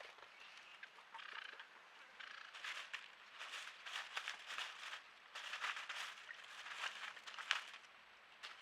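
Small forest birds at a pool making a run of short, scratchy sounds that build up from a few seconds in and thin out near the end.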